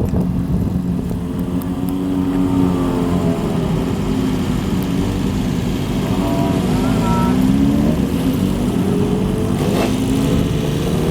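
Several motorcycle engines running together as the bikes ride in. Their exhaust notes rise and fall in pitch as they are blipped and ridden past.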